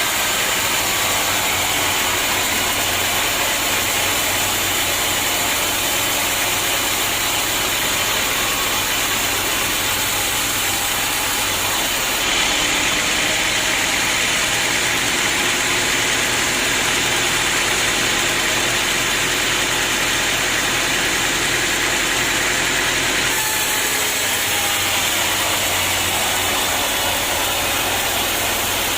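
Sawmill machinery running steadily, with loud machine noise throughout. Its character changes abruptly about twelve seconds in and changes back about eleven seconds later.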